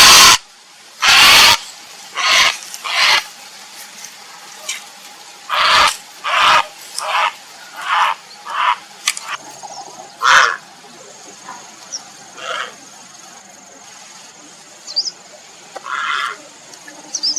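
Grey heron giving harsh, croaking calls in its mate-seeking call: about a dozen short, loud squawks at uneven intervals, the loudest in the first couple of seconds. A faint, thin, steady high whine runs behind them from about halfway through.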